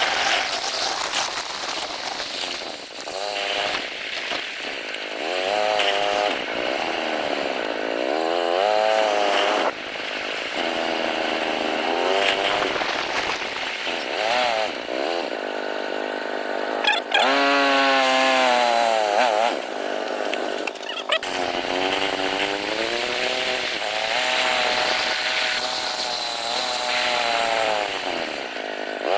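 A small engine revving up and down repeatedly, its pitch rising and falling every second or two.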